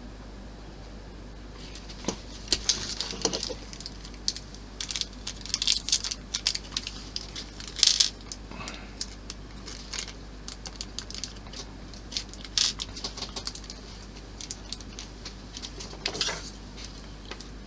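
Clicks, taps and brief rustles of small plastic model parts and screws being handled, irregular and starting about two seconds in.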